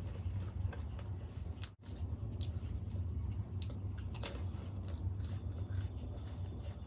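Close-miked chewing of dahi golgappa: crisp puri shells crunching and wet, squishy clicks from the yogurt filling, with a sharper crunchy bite about four seconds in. A steady low hum runs underneath.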